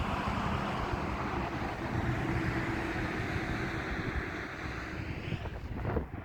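A motor vehicle driving past on the road: an engine hum under a rush of tyre noise that falls away near the end.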